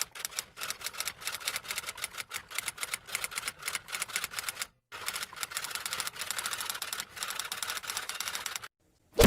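Typing sound effect: rapid, uneven clicking of keys, pausing briefly about halfway through and stopping shortly before the end. Right at the end comes one short, loud swoosh that falls in pitch.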